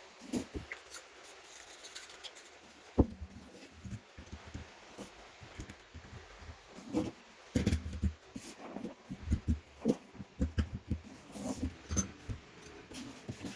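Irregular clicks and knocks of parts and tools being handled during the hammer drill's repair, with one sharp knock about three seconds in and a busier run of knocks in the second half.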